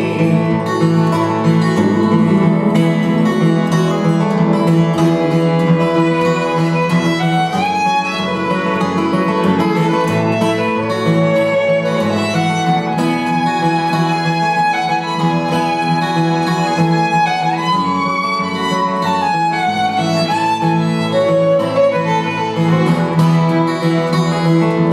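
Instrumental break of a folk song: a fiddle plays a sliding melody line over a strummed acoustic guitar.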